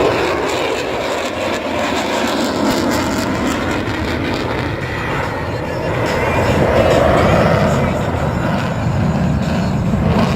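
Jet noise from an F-22 Raptor's twin turbofan engines in flight, a continuous rushing roar that swells a little about two-thirds of the way through.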